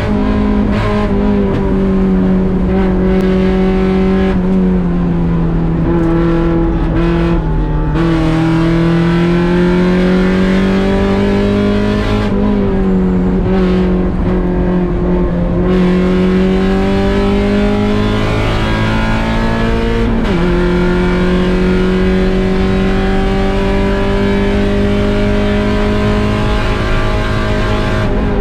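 1.6-litre Mazda Miata four-cylinder engine running hard at high revs under race conditions. Its pitch sags and climbs as the car goes through corners, then drops suddenly about twenty seconds in at an upshift before climbing again.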